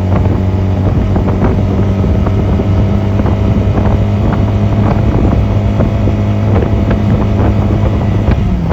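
Honda 250cc motorcycle engine running at a steady speed under way, with wind buffeting the microphone. Near the end the engine note drops.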